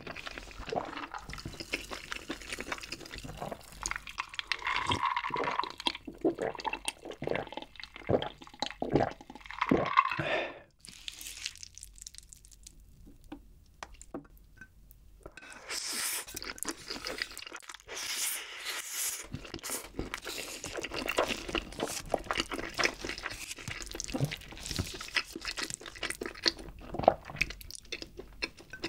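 Close-miked wet chewing and sticky, saucy noodle sounds from creamy spicy instant noodles (cream carbonara Buldak). The sound drops away for a few seconds about eleven seconds in, then resumes with squishy sounds as the sauce-coated noodles are lifted and handled.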